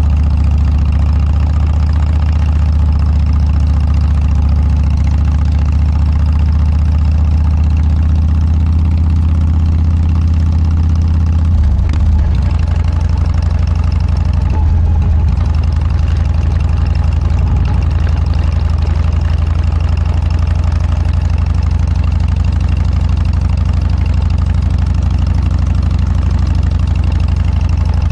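Harley-Davidson Dyna's V-twin engine running steadily through an aftermarket Motorstage muffler, with a deep, even exhaust note. The note changes about twelve seconds in and again briefly near fifteen seconds.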